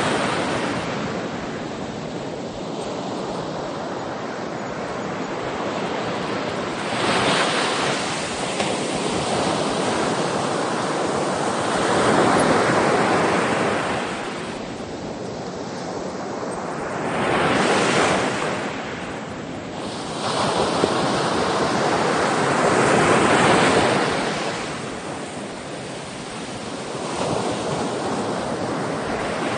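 Sea waves breaking and washing on a shore, each surge swelling and ebbing every five or six seconds.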